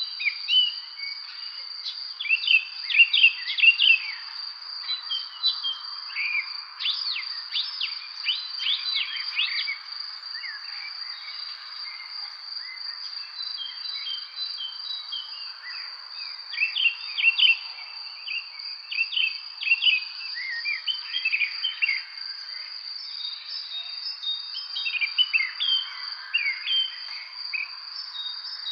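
Songbirds chirping in scattered bursts of quick notes, over a steady high-pitched insect trill.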